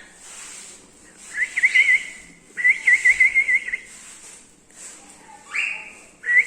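Cockatiel whistling: phrases of quick warbling notes held around one pitch, two in a row, then a short harsher rising call and another whistled phrase near the end.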